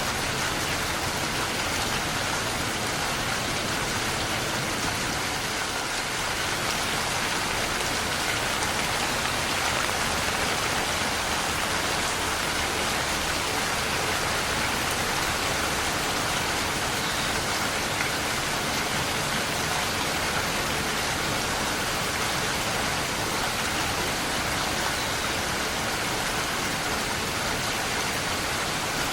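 Steady rainfall, a dense even patter of rain on surfaces.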